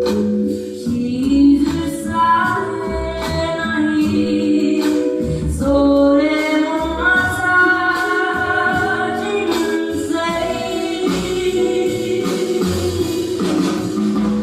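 A young girl singing a slow ballad in Japanese with instrumental accompaniment, long held notes bending in pitch.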